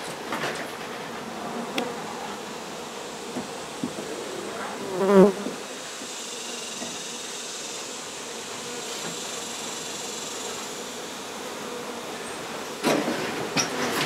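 Swarm of honey bees buzzing steadily around an exposed hive being cut out. A brief, louder pitched sound stands out about five seconds in, and a burst of handling noise comes near the end.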